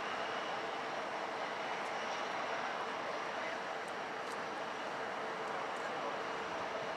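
Steady rushing noise of jet airliner engines, heard at an even level with no rise or fall.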